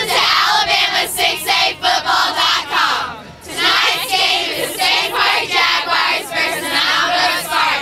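A group of high voices chanting together in rhythmic phrases, with a short break about three seconds in.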